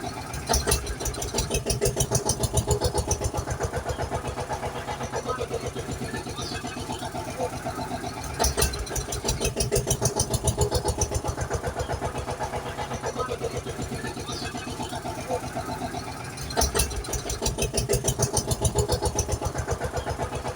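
Engine starting and running, a fast, even pulsing. The same sound repeats about every eight seconds, three times over, each time beginning with a few sharp clicks and a louder stretch.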